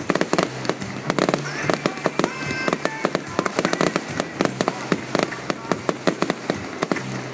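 Fireworks display in full barrage: a dense, rapid run of bangs and crackles with no let-up.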